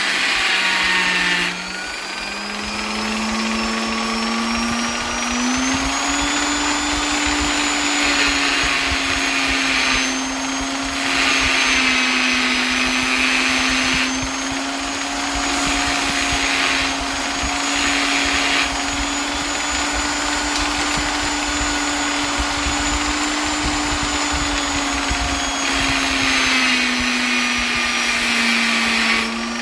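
Electric polisher's motor running continuously with a steady whine and hiss. Its pitch rises slightly a few seconds in, holds steady, and sags near the end, while the hiss drops away briefly several times.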